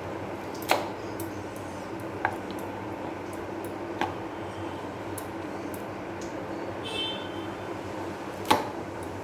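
Knife striking a cutting board while cutting garlic cloves: four sharp knocks at uneven intervals with a few fainter ticks between, over a steady low hum.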